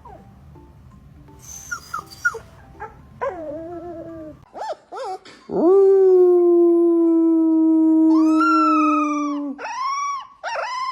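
Dogs howling: a few short yelps, then one long steady howl, joined near its end by a second, higher-pitched howl, followed by shorter howls. Faint background music plays under the first part.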